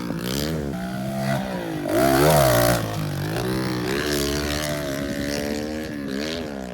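Pit bike engine revving, its pitch rising and falling several times as the throttle is worked, growing fainter near the end.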